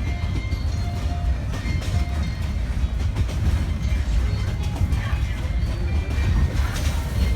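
Metre-gauge passenger train running on the track: a steady low rumble from the wheels and coach, with scattered knocks, a sharper one near the end.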